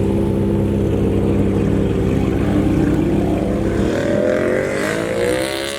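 Car engine running with a steady drone, then rising in pitch from about two and a half seconds in as the engine speeds up.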